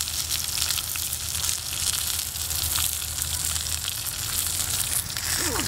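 A whole fish frying in oil on a metal pan over a wood fire: a steady sizzle with fine crackles running through it.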